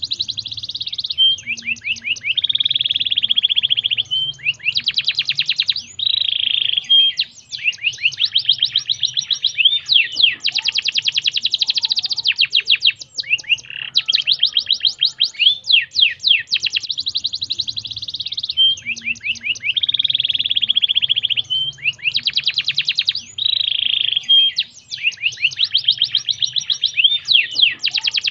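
Domestic canary singing a continuous song of rapid trills and rolls, one phrase following another every second or two with hardly a break.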